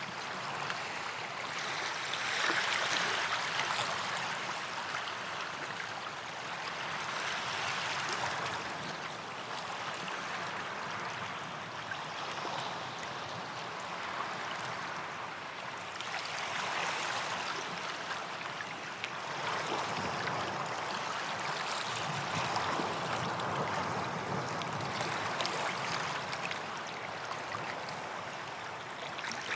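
Small waves lapping on a sand beach, the wash swelling and easing about every four to five seconds.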